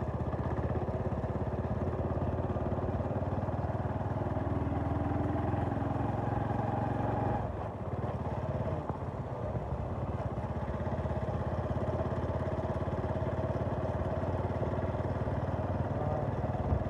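A vehicle engine, likely a motorcycle, running steadily on the road. About seven and a half seconds in, the engine note dips briefly, then picks up and runs on.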